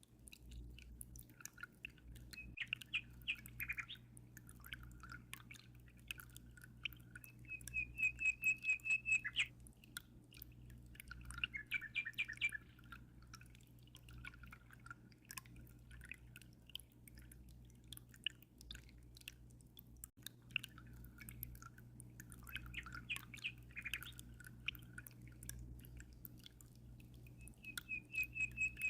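A songbird singing in short phrases every few seconds, some of them quick trills of rapid notes, over steady water dripping and trickling. A low steady hum runs underneath.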